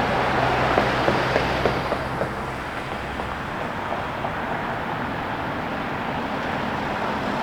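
Jet engine noise of a Boeing 737 MAX 8 on its landing approach, a steady rush with a low hum that fades out about three seconds in, easing slightly after that.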